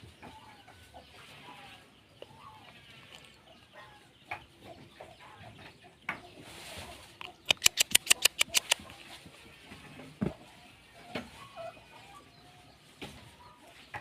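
Chickens clucking, with scattered sharp clicks. About halfway through comes a quick run of around a dozen loud sharp strokes, roughly eight a second, which is the loudest sound here.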